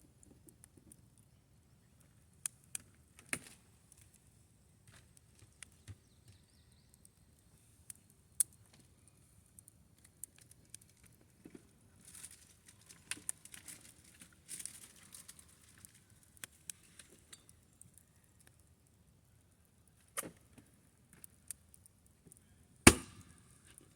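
Sparse small clicks and pops, busier around the middle, with one sharp, loud knock about a second before the end.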